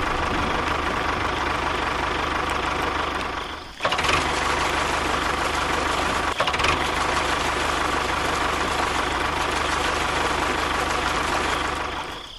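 A small motor running steadily, cutting out briefly about four seconds in and then running on.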